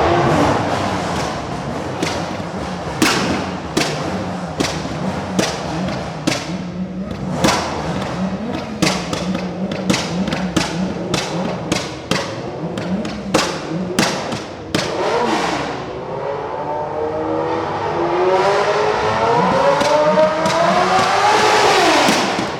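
Car engine running with a steady thumping beat of music over it; in the last few seconds the engine revs up, climbing in pitch for about five seconds, then drops off sharply.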